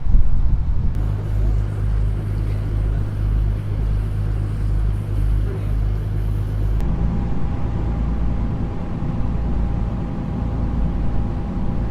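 Diesel engine of a river sightseeing boat running steadily with a low drone, with wind and water noise over it. About seven seconds in the drone shifts and a thin, steady higher tone comes in.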